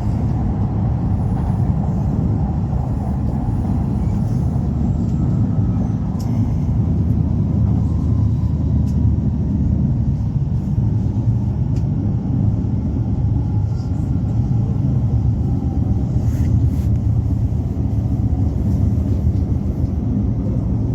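E5 series Shinkansen at speed: a steady, even low rumble of running noise.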